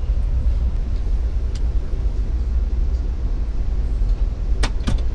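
Steady low rumble of a moving passenger train heard from inside the coach, with two sharp clicks a little before the end.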